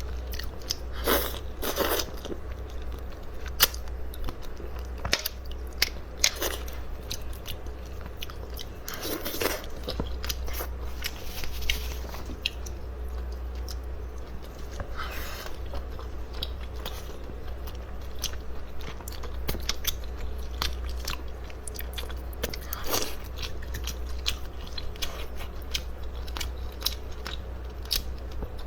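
A person eating seafood close to the microphone: biting and chewing, with irregular crunches and clicks, over a steady low hum.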